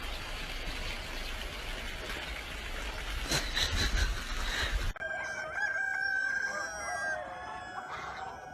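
A rooster crowing: one long, drawn-out crow that begins after a hard cut about five seconds in and drops in pitch toward the end. Before it there is a steady noisy hiss with a few knocks.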